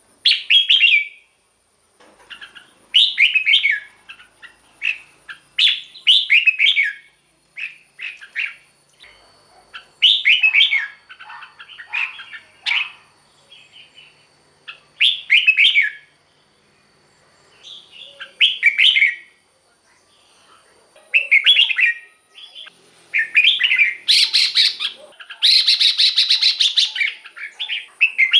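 Red-whiskered bulbul singing: short, bubbly whistled phrases repeated every couple of seconds with brief pauses, then a harsher, scratchier burst near the end.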